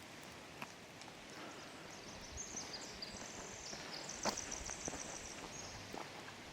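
A small songbird singing one long, high, rapid trilling song that steps between several pitches, starting about two seconds in and stopping near the end. Under it is a steady hiss of rain in the forest, with a few soft knocks of footsteps.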